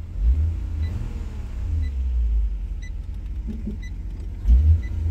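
Ford AU Falcon heard from inside the cabin, its engine a low rumble that swells a few times as the car is moved slowly with a gearbox the owner says no longer works in drive. A short beep sounds about once a second.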